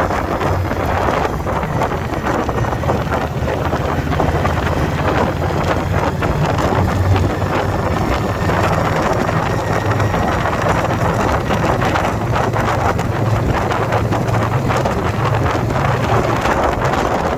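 Wind buffeting the microphone over the steady running of a 2021 Indian Scout Bobber Twenty's V-twin engine on the move.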